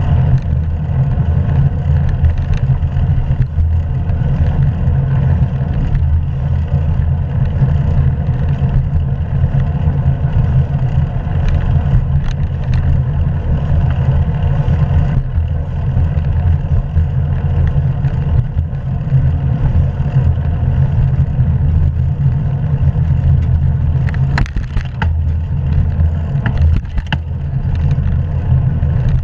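Steady low rumble of wind and road noise on the microphone of a camera riding along on a moving bicycle, with a few brief knocks near the end.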